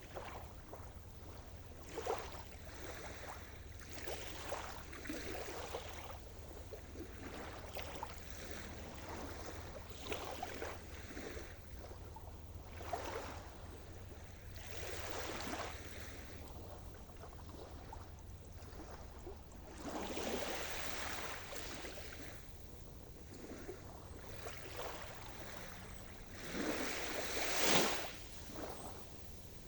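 Sea surf: small waves breaking and washing in with irregular splashes every second or two, a larger wave breaking near the end, over a steady low rumble.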